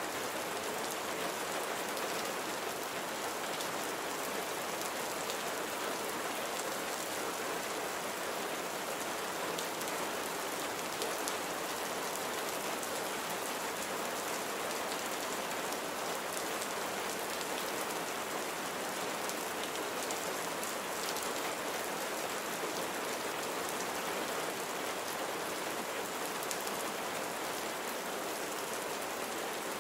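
Steady rainfall: an even hiss of rain on surfaces with scattered small drop ticks.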